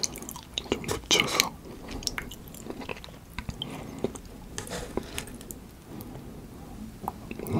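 Close-miked wet chewing and mouth clicks from eating soft salmon sushi in tartar sauce, with a louder burst a little over a second in.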